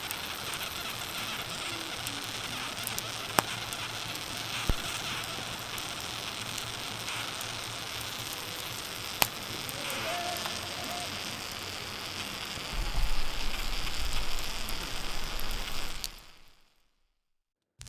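Campfire burning with a steady hiss and scattered sharp pops. A low rumble joins about three-quarters of the way through, then the sound fades out.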